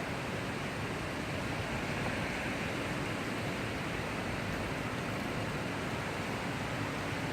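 Heavy rain falling in a thundershower: a steady, even hiss with no thunder claps.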